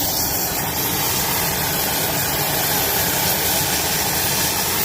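Brazing torch flame burning with a steady rushing hiss while a copper refrigerant line joint is heated.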